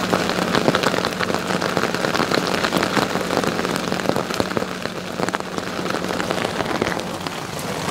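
Rain falling on a sailing yacht's cockpit, a dense crackle of drops striking close to the microphone. A steady low hum runs underneath and stops about six and a half seconds in.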